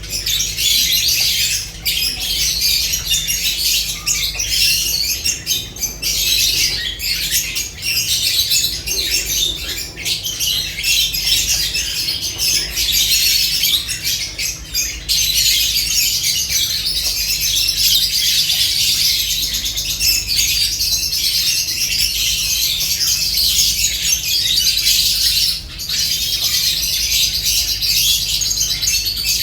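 A flock of lovebirds chattering and squawking without pause in a dense, high-pitched stream, with short sharp clicks among the calls and a low steady hum beneath.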